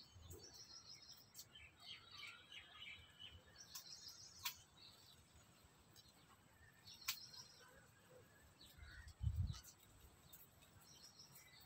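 Faint, scattered bird chirps over a quiet background, with a couple of sharp clicks and a brief low thump about nine seconds in.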